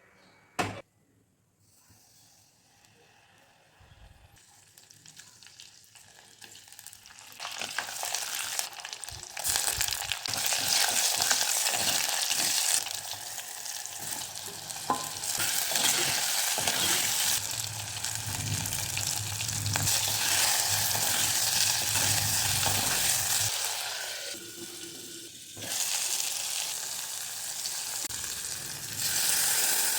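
Food sizzling in hot oil in a pan while being stirred, with scraping and clicks from the stirring. It begins quiet with a single sharp click, the sizzle starts about seven seconds in and grows loud, eases briefly near the end, then flares up again.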